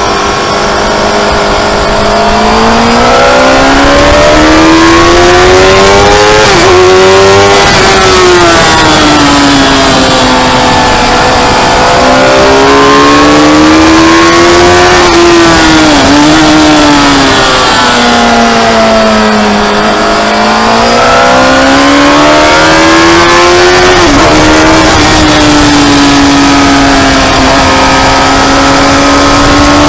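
Motorcycle engine on a race circuit, its pitch climbing under acceleration and falling away for corners several times over, with a few quick sharp dips in the note, over a steady rush of noise.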